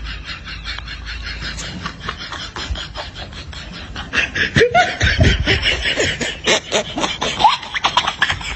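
Human laughter: rapid breathy pulses, getting louder about halfway through with short high-pitched laughing sounds, then easing off near the end.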